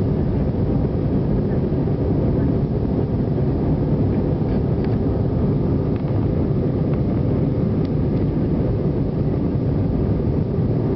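Steady noise of a Wizz Air Airbus A320's jet engines and rushing air during takeoff, deep and even, with no change in level.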